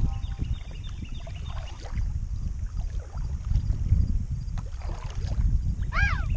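Low, uneven rumble of a small boat out on the water, with a few faint bird chirps early on and a short whistled call that rises and falls about six seconds in.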